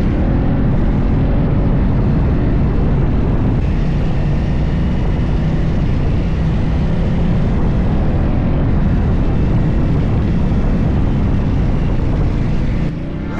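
Motorcycle engine running steadily while riding, under heavy wind rumble on the microphone. It cuts off suddenly near the end.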